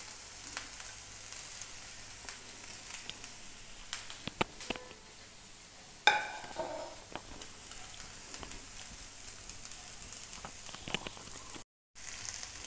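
Eggplant slices and sliced onions sizzling in oil in a nonstick frying pan, a steady high hiss with scattered small crackles. A short ringing clink about six seconds in, and the sound cuts out for a moment near the end.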